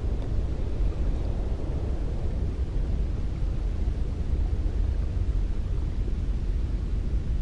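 Wind blowing steadily: a deep, even rush of noise with most of its weight low down and no separate gusts or hits.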